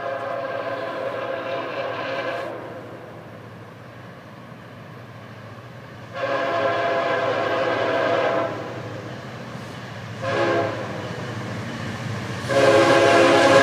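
Florida East Coast Railway freight locomotive's horn sounding the grade-crossing signal, long, long, short, long, as the train approaches. The last long blast is the loudest, and a steady low rumble of the locomotive runs beneath.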